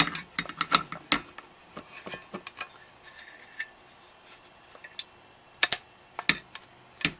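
Irregular sharp clicks and clacks of hard plastic and metal parts knocking together as a homemade glue-cartridge tool is handled and worked, some in quick clusters, with gaps between.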